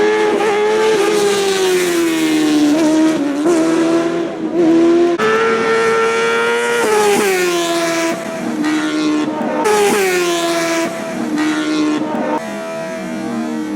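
High-revving sport motorcycle engine at speed, its pitch rising and falling as the bike accelerates and shifts gears, with a jump up about five seconds in and a drop about seven seconds in.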